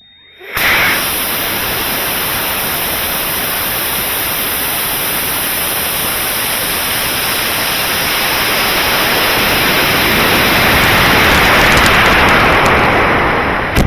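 Loud, steady rushing of air over the microphone that starts suddenly about half a second in, swells a little near the end, then cuts off.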